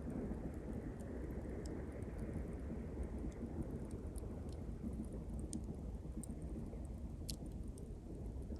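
Small campfire of pine twigs crackling, with scattered sharp pops and snaps, over the steady wash of sea waves breaking on the shore; a wave swells in near the start and eases off.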